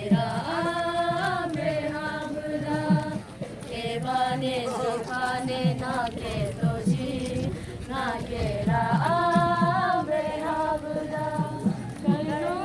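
Group of voices chanting in a sung melody, with long held notes that slide up and down between phrases.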